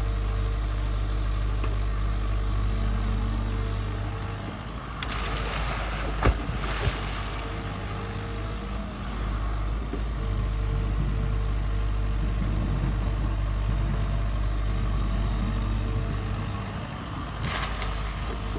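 Sany SY80 excavator's diesel engine running steadily under a fixed whine. A burst of noise with a sharp knock comes about six seconds in, and a shorter burst near the end.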